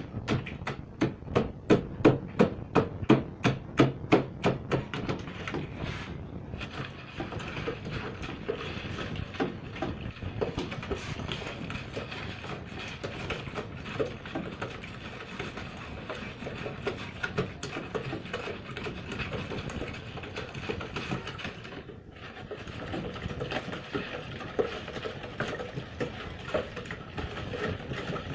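Soda ash being stirred by hand into water in a container to dissolve it. For about the first six seconds the stirrer knocks quickly and evenly against the container, about three to four strokes a second; after that it gives a softer, irregular scraping and clinking.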